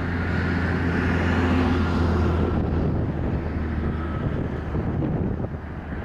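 Jet engines of a Boeing 767-200 airliner passing on its landing approach: a rumble with a thin whine, loudest about two seconds in and then easing, with wind buffeting the microphone.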